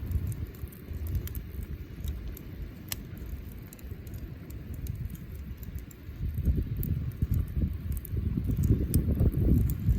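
Bonfire burning, crackling with scattered sharp pops over a low rumble that swells louder in the second half.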